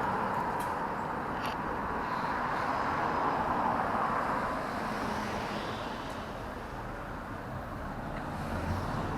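Street traffic noise: a steady hiss of passing road vehicles that eases off midway and swells again near the end.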